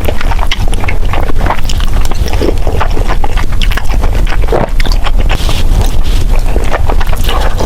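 Close-miked mukbang eating sounds: steady wet chewing and smacking of jjajangmyeon, many quick clicks and squelches in a row, over a constant low rumble.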